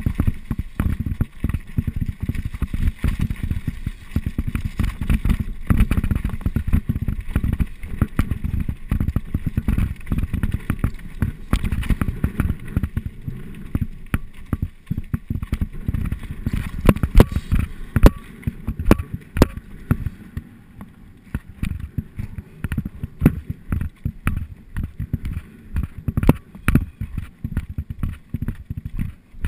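Mountain bike riding down a rough trail: tyres rumbling over rocks and gravel, with the bike rattling and knocking over bumps. It is dense for the first two-thirds, then sparser, with separate sharp knocks near the end.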